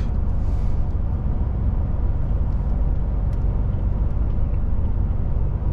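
DAF truck's diesel engine and road noise heard inside the cab while cruising: a steady low drone with no change in pitch.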